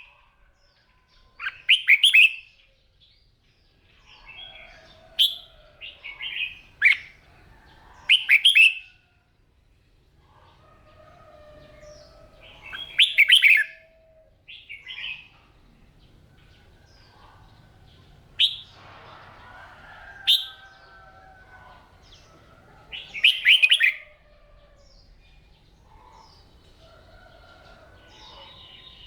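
Red-whiskered bulbul singing: short, loud, bubbly phrases repeated every few seconds, with fainter chirps in the pauses.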